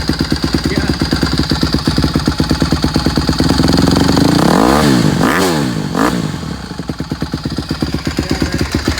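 2020 Honda CRF150RB dirt bike's single-cylinder four-stroke engine idling with a steady pulsing beat on a cold start, blipped three times in quick succession about halfway through, then settling back to idle.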